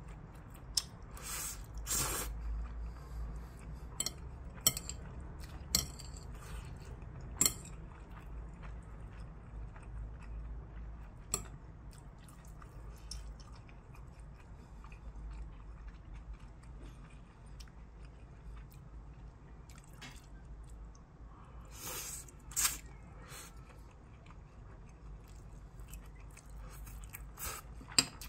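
A person chewing mouthfuls of stir-fried ramen noodles close to the microphone, with scattered sharp clicks and smacks, about a dozen in all.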